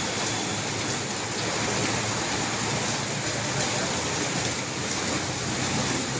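Steady hiss of heavy monsoon rain falling.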